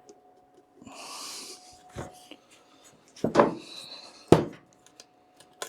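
Containers and tools being handled on a bench while epoxy primer and its catalyst are set out for mixing: a short hiss about a second in, then several knocks and clunks, two of them loud, and a few light clicks.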